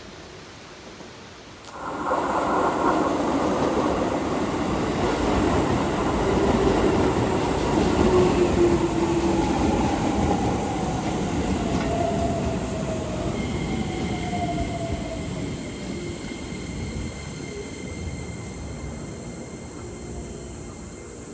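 Keikyu electric train running at the station, starting abruptly: wheel and running noise, with its motor whine sliding slowly down in pitch and the sound slowly fading, as a train does when it slows. A steady high squeal joins past the middle.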